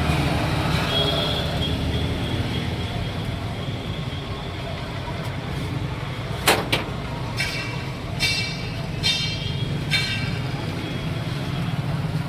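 A vehicle's engine running with a steady low rumble. About halfway through there is a sharp knock, then four short ringing tones less than a second apart.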